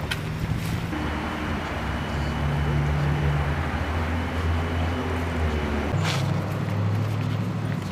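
Car engine running with road noise, its hum stepping to a new pitch about a second in and again near the end.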